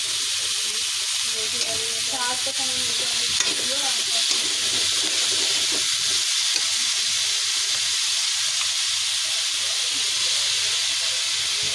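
Chopped radish greens sizzling steadily in hot oil in a steel pan on the stove.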